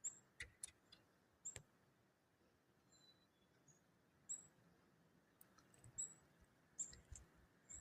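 Faint, very high, thin bird chirps, single short notes scattered every second or two over a quiet background with a few faint clicks.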